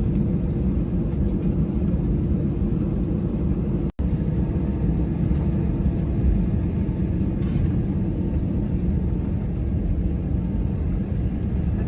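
Steady low rumble inside an Airbus A321's cabin as the jet taxis to the gate after landing, engines running. The sound cuts out for an instant about four seconds in.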